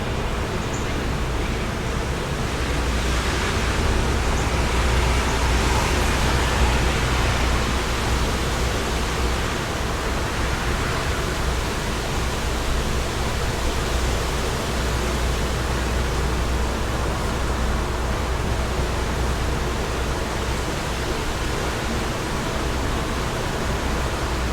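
Wind blowing steadily, with a strong low rumble from gusts buffeting the microphone; it swells a few seconds in and eases again.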